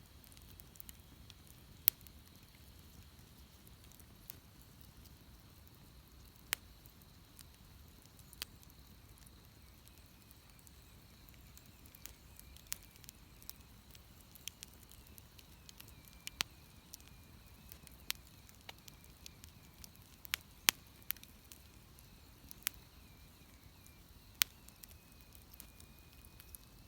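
Wood bonfire crackling, with irregular sharp pops, the loudest about two seconds in and twice around twenty seconds in. A faint thin high tone sounds behind it.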